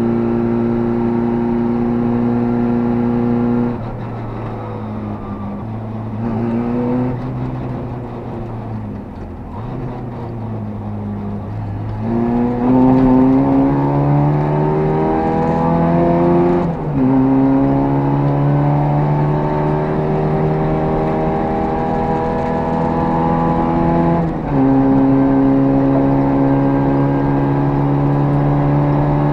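Škoda 130's four-cylinder engine heard from inside the cabin while driving: steady at first, then the throttle eased off for several seconds, then about twelve seconds in it pulls up through the revs, drops sharply at a gear change and runs steady, with another short dip and pick-up near the end. The driver says the engine still splutters and won't answer the throttle properly, and blames the carburettor without being sure.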